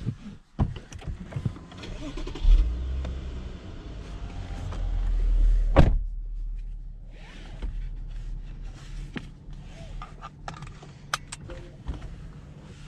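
Lexus LS 500's twin-turbo 3.5-litre V6 starts about two and a half seconds in and runs with a low rumble. The driver's door then shuts with a heavy thud about six seconds in, after which the idle is muffled. Light clicks from the cabin controls follow near the end.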